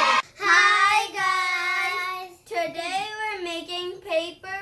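A child singing: one long held note, then a wavering, sliding melody.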